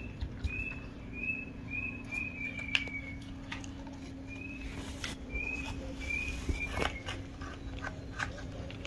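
Bird chirping: short high chirps, each dipping slightly in pitch, coming in irregular runs over a steady low hum. Light clicks of plastic toy pieces being handled.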